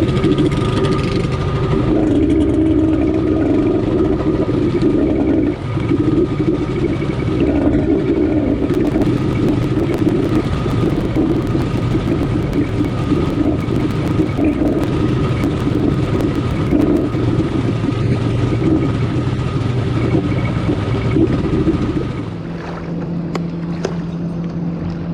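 Kawasaki X2 jet ski's 650 two-stroke twin running steadily under way, with its exhaust coupler popped off so exhaust leaks under the hood. About 22 seconds in the engine drops back to a lower, quieter idle.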